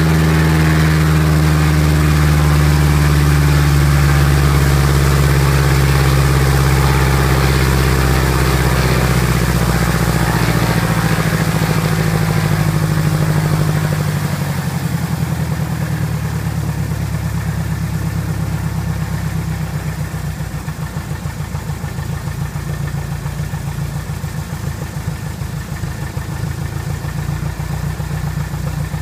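Piper Apache's piston aircraft engine and propeller running at run-up power, then throttled back about halfway through to a lower, pulsing idle, during its run-up after a rebuild.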